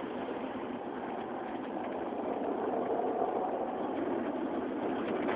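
Car wash water jets spraying onto a car, heard from inside the cabin like rain on the roof: a steady hiss that grows a little louder about halfway through.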